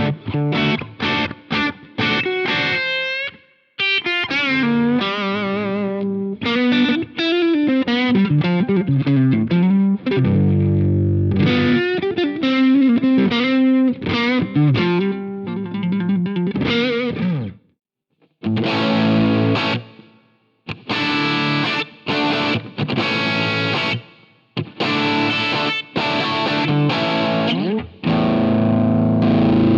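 Electric guitar played through a Jeds Peds AndyChad overdrive pedal, a Nobels ODR-1 clone, giving a driven, gritty tone. Quick picked notes give way to a lead line with string bends. After a short break about 18 seconds in, brighter chopped chords follow.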